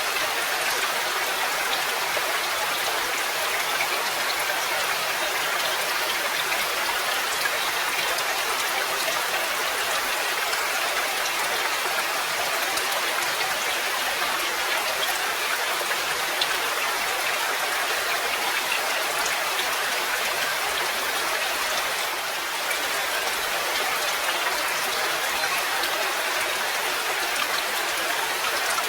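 Steady rain: a dense, even hiss of many drops with little low rumble and no thunder, dipping slightly for a moment about 22 seconds in.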